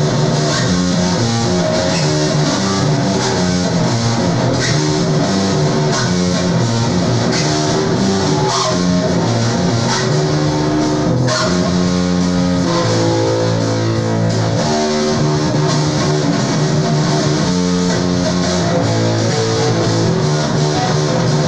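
Rock music with electric guitar and bass guitar playing continuously, the low bass notes prominent.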